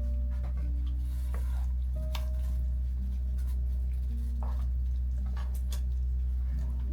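Soft background music of held notes that change every second or two, over a steady low hum, with a few light clicks and taps.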